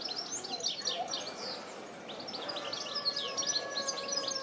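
Small songbirds twittering: a dense run of rapid, short high chirps. From about halfway a steady tone is heard under them, sliding down in pitch near the end.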